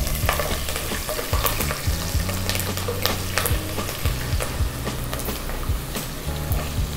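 Cumin seeds and freshly added green chillies sizzling in hot oil in a pot, with a spatula stirring and scraping against the pot at irregular moments.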